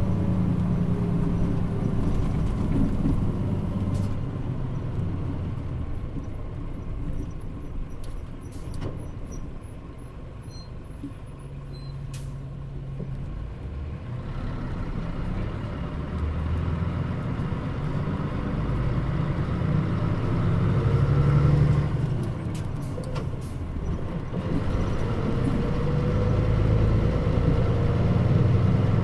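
Mitsubishi Fuso Aero Star bus (KL-MP35JM, Nishikō body) heard from inside the cabin: the diesel engine drops away as the bus slows, with a few sharp air-brake clicks and hisses. It then pulls away and accelerates, the engine note rising and then breaking twice at gear changes.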